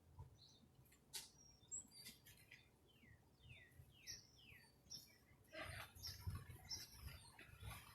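Faint birdsong: a small bird calls a quick run of short chirps, each sliding down in pitch. Short bursts of noise come in near the end.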